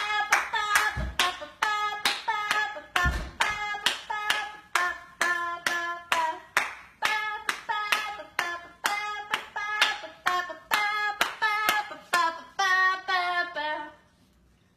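A parrot making a rhythmic beat on request: a steady run of sharp clicks, about two to three a second, each with a short pitched chirping tone. The run stops shortly before the end.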